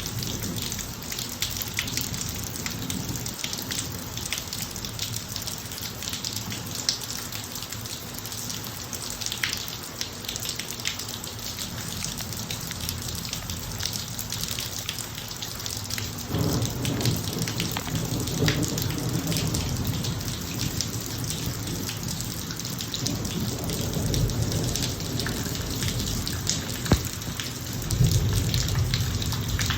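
Steady rain falling on a driveway, a dense patter of drops. Low rumbles of thunder swell about halfway through and again near the end.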